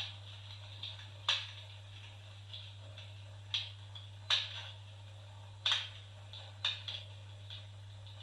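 Electric fireplace running, with irregular, sharp crackles like burning logs, about five clear pops among smaller ticks, over a steady low hum.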